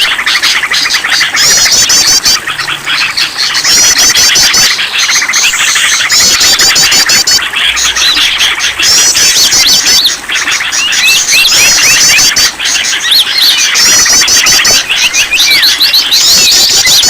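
Bird-lure recording of many songbirds chirping and trilling at once in a dense, continuous chatter. A high, rapid trill breaks in every few seconds over the mass of calls.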